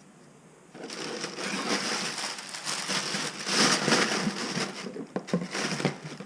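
Packaging being crumpled and rustled by hand: a crinkling that starts about a second in and runs for about five seconds, with a few sharp clicks near the end.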